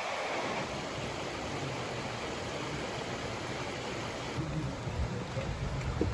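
Steady rush of flowing water, like a stream or waterfall. Low rumbling from wind on the microphone comes and goes in the second half, with a short low knock just before the end.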